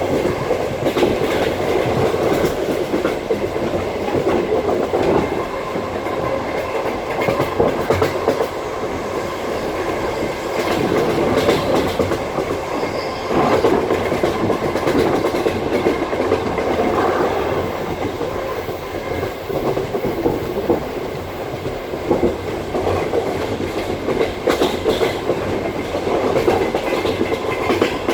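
Passenger railway carriage running at speed: a steady rumble of wheels on the rails, with the clickety-clack of the wheels passing over rail joints.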